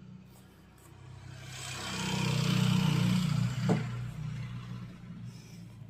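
A motor vehicle passing by, with engine hum and tyre noise growing louder over about two seconds, peaking in the middle, then fading away.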